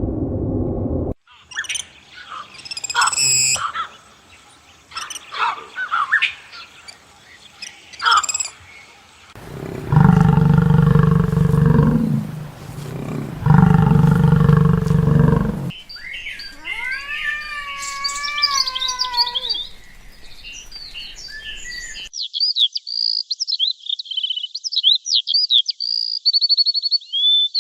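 A sequence of different animal calls: bird chirps and whistles, then two long, deep pitched calls of about two seconds each from a larger animal, then more bird calls with falling pitch and fast high trills near the end.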